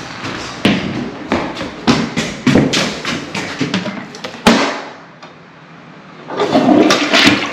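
A run of knocks and clatter in a small bathroom, with one sharp thump about four and a half seconds in; near the end a louder rush begins, a toilet starting to flush.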